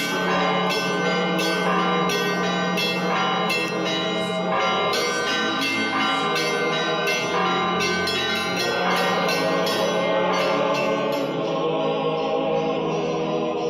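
Intro music of church bells ringing in a quick peal, about two strikes a second, over a held low tone. The strikes thin out and fade after about eleven seconds, leaving the sustained tone.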